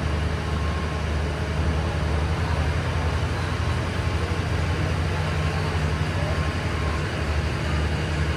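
Steady low diesel hum of a passenger train standing at the platform with its engines running at idle, under a general haze of station noise.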